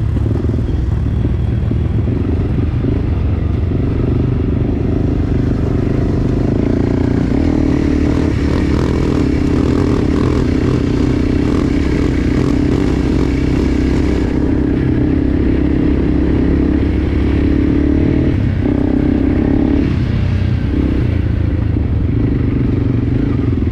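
Enduro dirt bike engine running steadily under throttle while riding a trail, with clattering from the bike over rough ground. Twice, a little before and after the 20-second mark, the throttle eases off briefly and the engine note drops, then picks back up.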